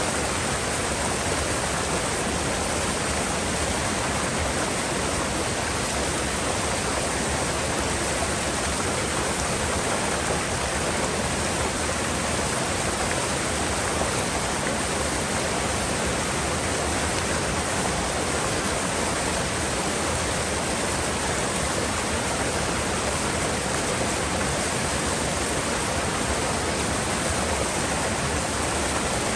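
Mountain river water rushing steadily, a dense even rush with no let-up.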